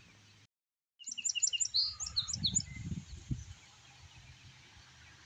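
A quick run of short, high bird chirps lasting about a second and a half, with a few low thuds under them, then a faint steady hiss of outdoor ambience.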